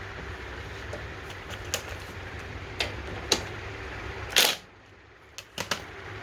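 Scattered sharp clicks and knocks of hand tools and small metal parts being handled while the mower's carburetor is taken off, over a steady low hum. The loudest is a short, harsh clatter about four and a half seconds in, and a quick run of three clicks comes near the end.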